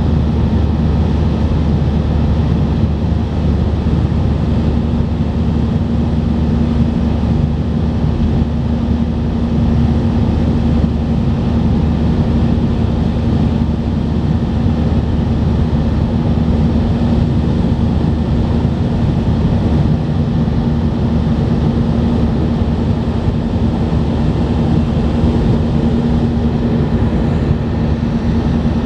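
Airbus A319 cabin noise heard from a window seat: the jet engines and airflow make a steady rush with a constant low hum, holding an even level throughout.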